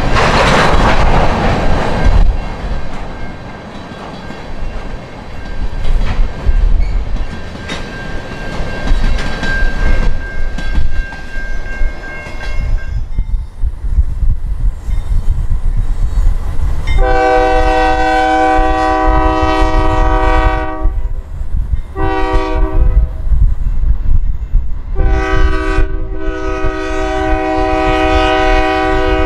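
A freight train of tank cars rolls past, its wheels clicking over the rail joints with a low rumble. Then a Union Pacific diesel locomotive approaching a grade crossing sounds its multi-note horn: a long blast, a short one, then another long blast that is still going at the end.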